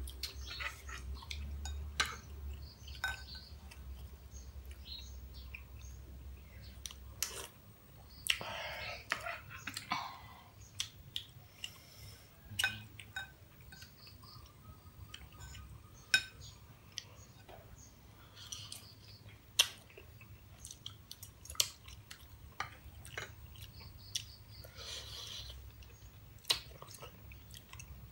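People chewing boiled moringa pods from a curry, with scattered sharp clicks of a spoon and fingers against ceramic bowls and plates.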